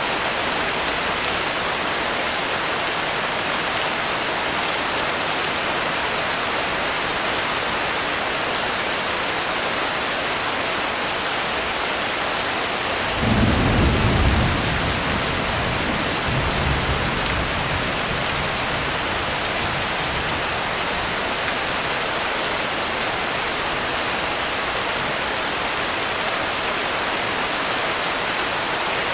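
Steady rain falling, with a clap of thunder about halfway through that rumbles low for a second or two and rolls on more faintly a couple of seconds later.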